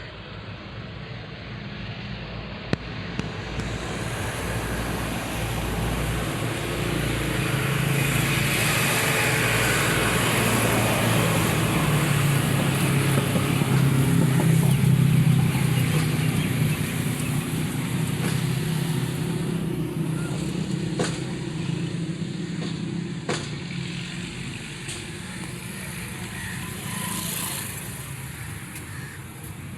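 Massey Ferguson 135 tractor engine running, growing louder to a peak about halfway through and then fading as it draws near and moves away. A few light clicks come in the second half.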